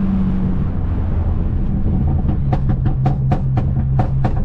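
Turbocharged, straight-piped Mercedes-Benz C250 droning under way. About two seconds in the engine note drops, as on lifting off the throttle, and a quick string of about ten sharp exhaust pops and crackles follows.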